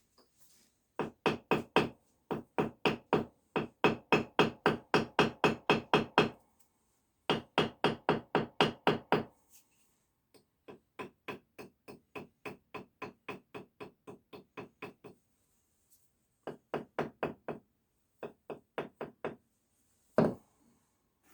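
Brick being tapped with a hammer in quick runs of about five taps a second, stopping and starting several times, as a brick row is worked during bricklaying.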